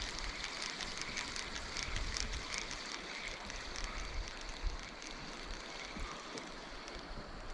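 Steady outdoor ambience: an even rushing hiss like wind or flowing water, with a thin steady high tone and many faint, short high chirps or ticks over it.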